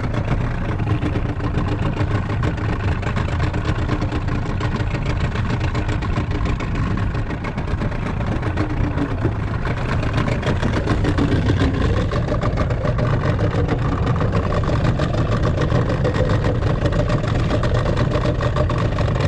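Small fishing boat's engine running steadily, its pitch rising about halfway through as it speeds up.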